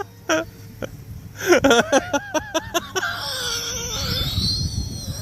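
A man laughing hard in quick repeated bursts: briefly at the start, then a longer fit about a second and a half in that draws out into a long, wavering high-pitched sound over a low rumble.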